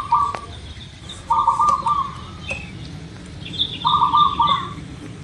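Zebra dove (local perkutut) cooing: short stuttering phrases of rapid notes, repeated about every two and a half seconds. Faint higher chirps of another bird are in the background.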